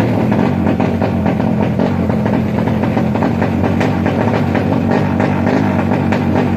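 Drag-race motorcycle engines running loud and steady.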